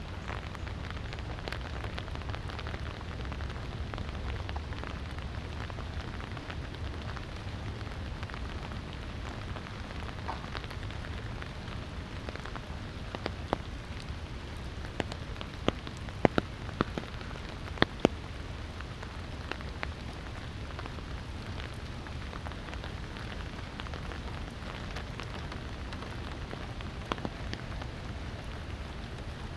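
Light rain falling steadily, with scattered sharp drips and taps of raindrops, a few louder ones about halfway through.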